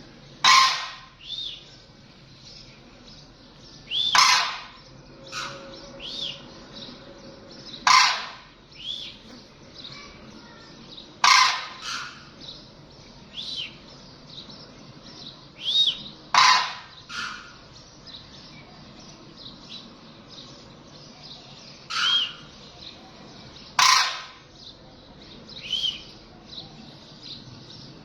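Birds calling: a loud, short, harsh call about every four seconds, about seven times in all, with softer, brief high chirps between them.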